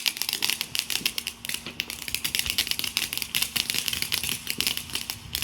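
A lit firework crackling: a dense, rapid stream of sharp crackles.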